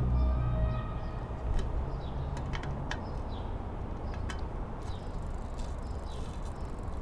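A few sharp, scattered clicks and taps of work on a bicycle, with short falling bird chirps repeating in the background. A low hum fades out about a second in.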